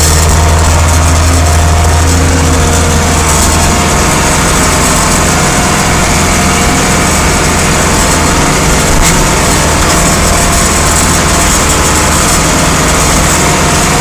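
Vintage farm tractor engine running steadily with a loud, even low hum.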